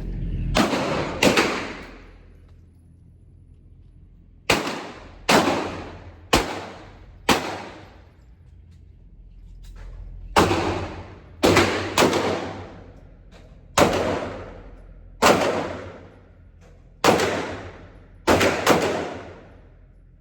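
About fourteen 9mm pistol shots from a Glock 19, fired at an uneven pace, one to two seconds apart with a few quick doubles. Each shot is followed by a fading echo off the range's walls.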